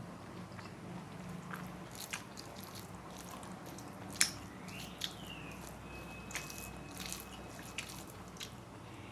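A person eating close to the microphone: chewing with scattered sharp mouth clicks and smacks, the loudest about four seconds in.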